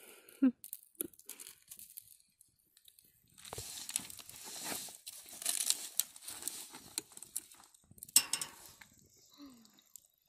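Crinkling and tearing of a packet or wrapper, a dense crackly rustle lasting about four seconds, with short voice sounds before and after.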